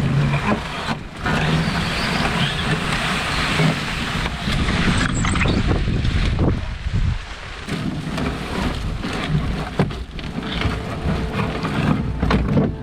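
Strong gusting wind blowing across the microphone, a rushing noise with a heavy low rumble that swells and eases from gust to gust.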